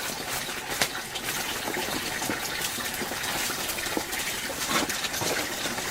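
Steady rushing noise with scattered light clicks and taps.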